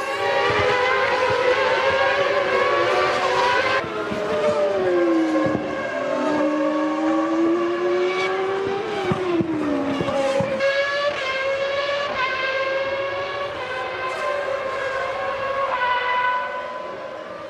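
Formula One race car engines running at high revs. The pitch falls sharply about four seconds in, then climbs again in repeated steps through upshifts in the second half.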